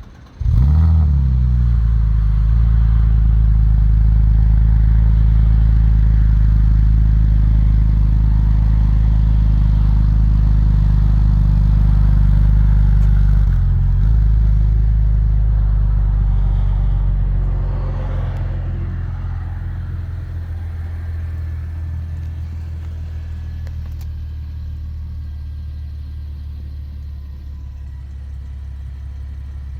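2012 Porsche Panamera engine cold-starting: it catches with a quick rev flare about half a second in, then holds a loud, steady fast idle. From about eighteen seconds in, the idle settles lower and quieter as the cold-start high idle drops away.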